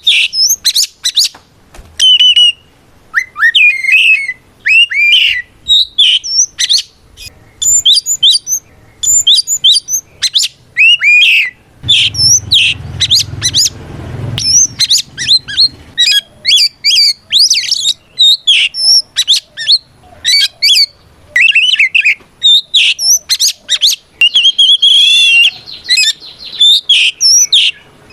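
Oriental magpie-robin (kacer) singing loudly and without letup: a rapid, varied string of whistles, chirps and rising and falling slurred notes broken by short pauses. It is the male's full-volume challenge song, calling out a rival to answer.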